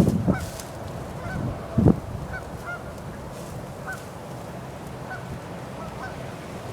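Birds calling again and again, short repeated calls at irregular intervals over a steady outdoor background, with one brief louder low sound about two seconds in.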